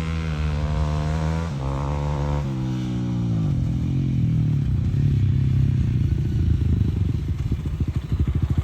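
Enduro motorcycle engine revving, its pitch rising and breaking sharply twice in the first few seconds, then dropping to steadier low running. Near the end it slows to a lumpy putter in which each firing pulse can be heard.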